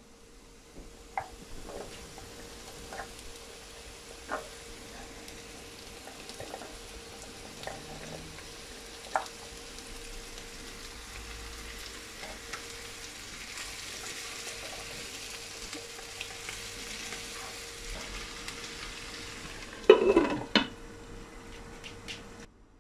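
Chopped bell peppers sizzling in hot oil in a wok, with a few sharp taps and scrapes of a spatula against the pan. About twenty seconds in, a glass lid clatters down onto the wok.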